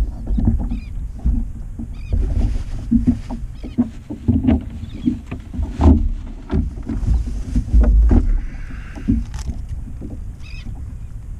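Water slapping and knocking against a fishing kayak's hull, with irregular thumps and a low rumble on the microphone.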